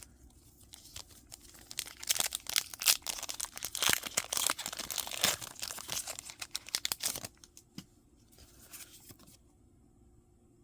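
A foil Pokémon booster pack being torn open and its wrapper crinkled: a run of crackling rips and rustles starting about two seconds in and stopping about five seconds later.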